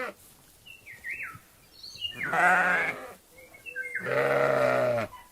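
Sheep bleating: two long, wavering bleats, the second lower in pitch, with a few short high falling chirps between them.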